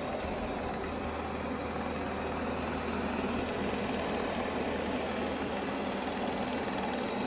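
Shark AI Ultra robot vacuum running: a steady motor whir with a low hum underneath.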